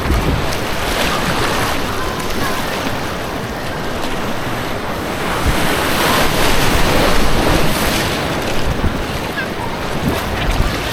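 Rushing white water on an artificial white-water course, heard close up from a kayak, a continuous loud wash with irregular low rumbling buffets on the action camera's microphone.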